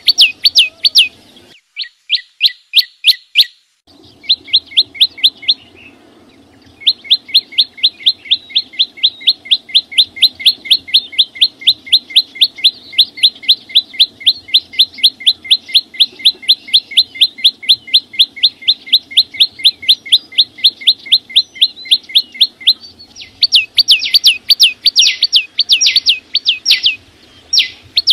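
A small songbird of the kind called chim sâu xanh in Vietnamese sings long runs of loud, rapid notes repeated about four times a second. Each note is a quick sweep in pitch, and the runs break off briefly twice in the first seven seconds. A faint steady low hum lies beneath.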